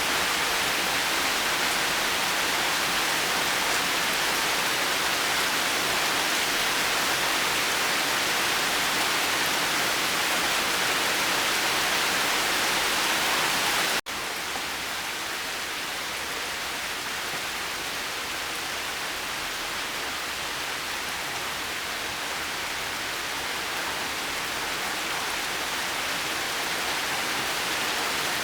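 Steady heavy rainfall, an even hiss of falling rain. About halfway it cuts out for an instant, as at an edit, and comes back slightly softer, growing louder again near the end.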